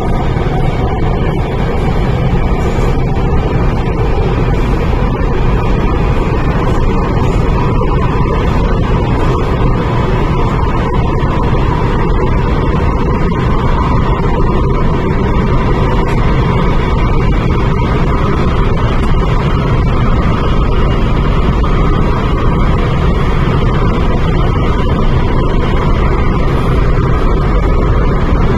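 MTR Tuen Ma line IKK-Train running steadily, heard from inside the carriage: a loud, even rumble of wheels and track, with a faint steady hum above it.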